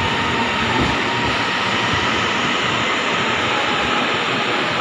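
Rapid KL LRT train at an elevated station platform: a steady, loud hiss and rumble with a faint whine running through it.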